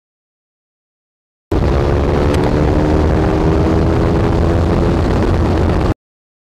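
Dead silence for about a second and a half, then a KTM RC390's single-cylinder engine pulling hard under full throttle, its note rising slowly, over heavy wind rush at highway speed. The engine note fades about five seconds in while the wind noise carries on, and the sound cuts off abruptly shortly before the end.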